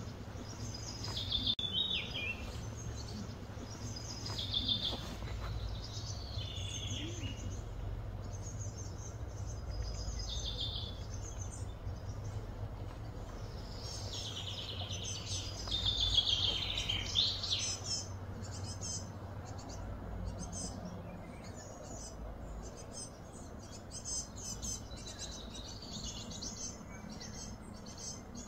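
Birds chirping and calling in repeated high phrases, a few seconds apart, then a run of quick, short, high chirps from about two-thirds of the way in. A low hum runs underneath.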